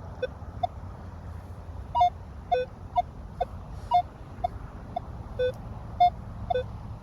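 Metal detector sounding short target-tone beeps at two or three different pitches, about two a second, as its search coil sweeps over metal in the ground. A steady low rumble runs underneath.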